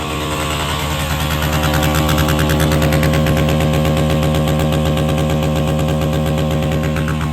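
Dirt bike engine held at a constant high rev, cutting in and out rapidly on the rev limiter, steady and loud throughout.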